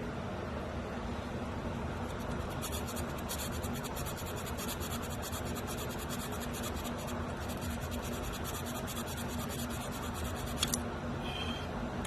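Rapid scratching strokes, typical of filing or scraping clean the crusty ignition points in a 1957 Ford Ranchero's distributor, starting about three seconds in and stopping near the end, over a steady low hum.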